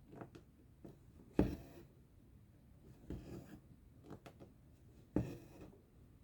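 Cross-stitch needle and thread drawn through fabric: five short scratchy swishes, each starting sharply, spaced a second or two apart, the loudest about a second and a half in.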